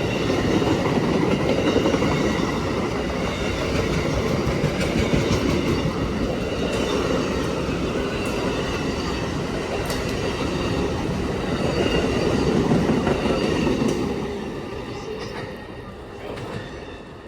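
Amtrak passenger train passing: a loud rumble of its wheels on the rails, with occasional sharp clicks, fading away near the end.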